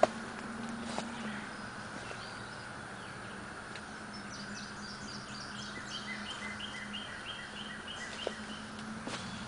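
Wild birds singing outdoors: repeated series of short chirps, with a faster run of high falling notes about halfway through, over a steady low hum. A few soft knocks from the camera being handled come near the start, about a second in and about eight seconds in.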